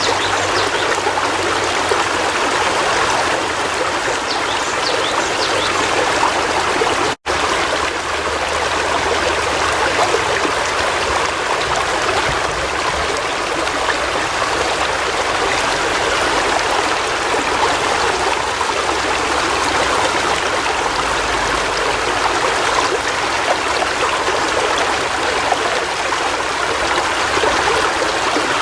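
River water flowing steadily. The sound drops out completely for an instant about seven seconds in.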